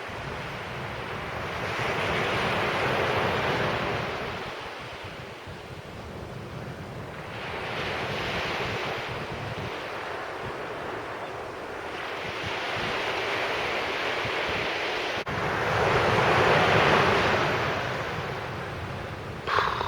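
Sea waves breaking and washing up a beach, the surf swelling and fading four times at intervals of about four to five seconds. Wind buffets the microphone with a low rumble throughout.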